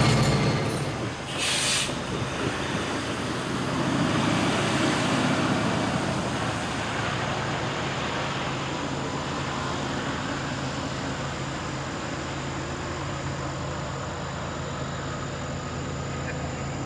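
Steady low rumble with a constant hum from distant diesel freight locomotives approaching, after a louder passing train cuts off about a second in.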